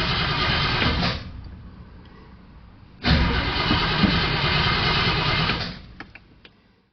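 An old car's engine being cranked over by its starter in two long bursts, turning over without catching. There is a quieter lull between the attempts, and a few clicks as the second one dies away.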